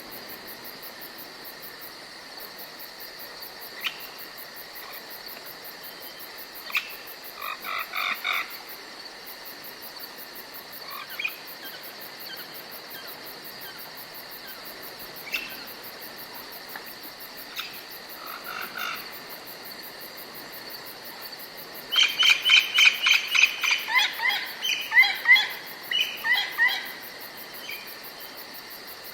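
Forest ambience: a steady, high chirring of insects such as crickets, with scattered short bird chirps. About two-thirds of the way in, a loud run of quick, repeated bird calls lasts several seconds.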